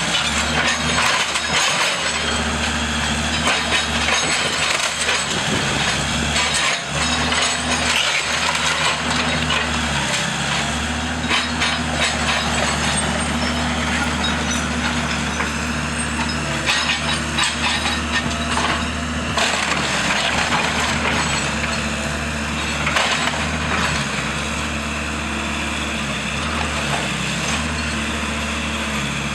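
Timber of a wood-frame house cracking and splintering as it is torn down, over the steady running of a heavy demolition machine's engine.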